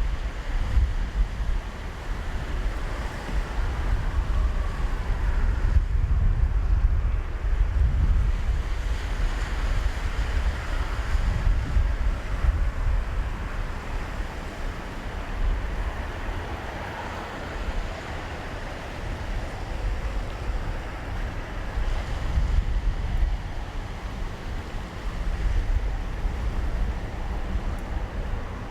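Wind buffeting the microphone in gusts, a deep uneven rumble with a fainter steady rushing hiss above it.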